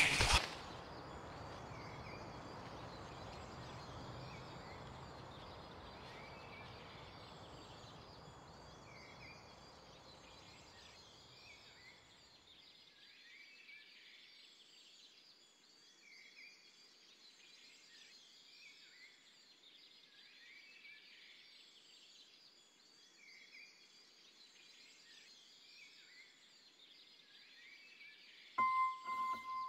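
Faint outdoor ambience: a hiss that fades away over the first dozen seconds, with a bird calling a short high note about once a second throughout. A piano note sounds near the end.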